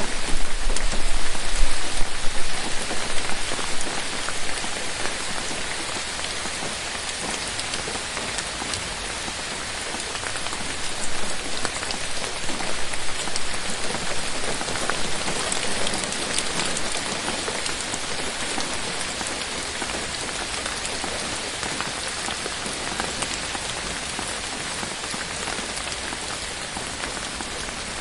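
Steady rain falling on forest foliage: a dense hiss of countless drop impacts, a little heavier for the first couple of seconds.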